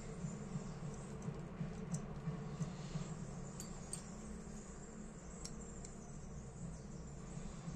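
A few faint, light clicks and taps from small metal lighter parts being handled during a repair, spread irregularly over a steady low background hum.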